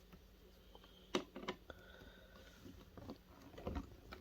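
A few light clicks and knocks of tools and small metal parts being handled, the loudest about a second in, with a short cluster of low knocks near the end.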